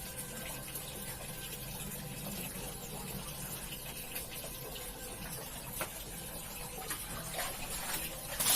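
Water running steadily, with a few small clicks and splashes; a louder rush of water starts right at the end.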